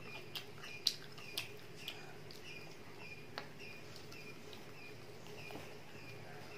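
Eating sounds from biting and chewing fried chicken drumsticks: a few sharp mouth clicks and smacks in the first half, the loudest about a second in. Under them a faint high chirping repeats about twice a second.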